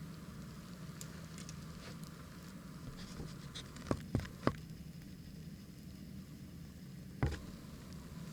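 Campfire burning with a low steady rush, its wood crackling with small ticks and a few sharp pops: three close together about midway and one more near the end.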